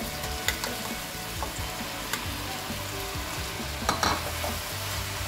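Raw minced mutton being spooned into a pan of hot onion-tomato masala, sizzling steadily in the oil. A metal spoon clicks and scrapes against the bowl and pan several times, most sharply about four seconds in.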